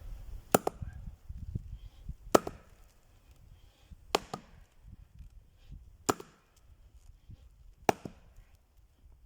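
Axe striking and splitting firewood: five sharp blows about two seconds apart, the first a quick double hit.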